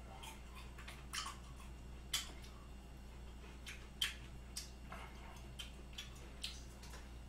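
Faint, irregular wet clicks of a man chewing raw beef tartare (yukhoe) with pear, about one or two a second, over a steady low hum.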